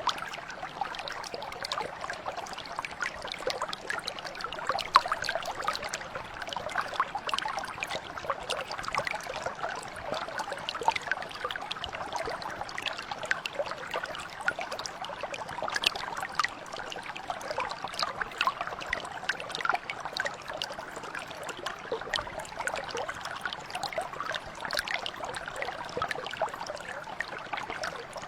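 Small mountain stream flowing and babbling steadily, with many small splashes and trickles.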